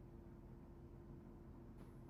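Near silence: room tone with a faint steady hum, and a soft faint rustle starting just before the end.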